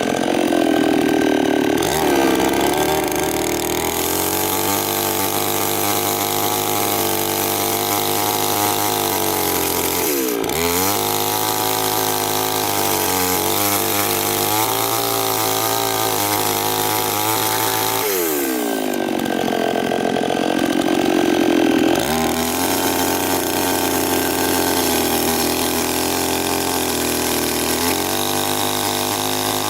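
Chainsaw engine running at high speed, its note dropping and sagging as it bears into wood at the start and again about two-thirds of the way through, with one brief dip in speed around ten seconds in.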